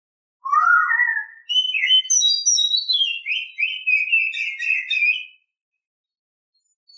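Female oriental magpie-robin singing in breeding condition, the call used to lure and excite males. One phrase of about five seconds opens with low rising whistles and runs into a quick string of higher, varied notes, then stops.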